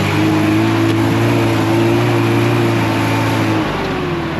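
Off-road 4x4's engine held at high revs under load as it pushes up a muddy climb, easing off about three and a half seconds in.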